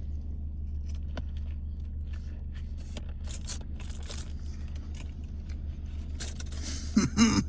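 Someone biting and chewing a loaded taco: scattered small crunches and rustles over a steady low hum from inside a parked car, with a short hummed "mm" near the end.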